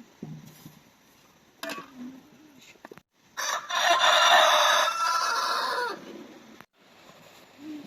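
A rooster crows once, loudly, starting a little over three seconds in and lasting about two and a half seconds.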